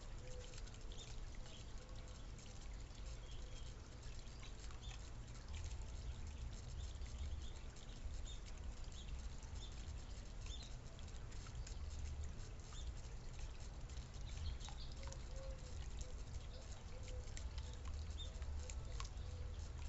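Small birds feeding on seed, many light pecking and scuffling ticks with short high chirps now and then, over a steady low rumble.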